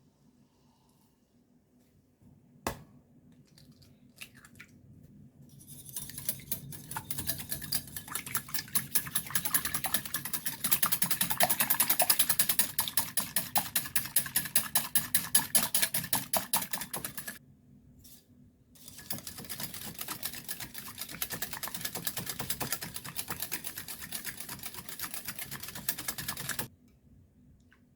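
Egg mixture being beaten by hand, the utensil clicking rapidly and evenly against the side of the bowl. The beating runs in two long stretches with a short pause between them, after a single knock a few seconds in.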